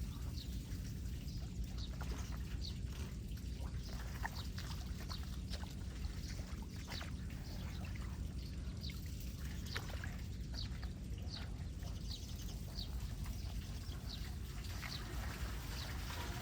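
Flood water pouring and trickling into a street storm drain as a steady low rush, with short high chirps repeating about once or twice a second over it.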